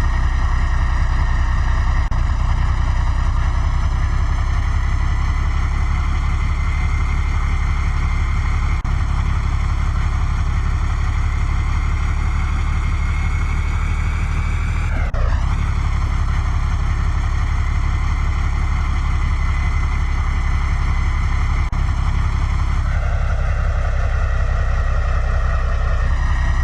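Truck engine running steadily with a heavy low drone, with a brief jump in the sound about halfway through and a few seconds of changed tone near the end.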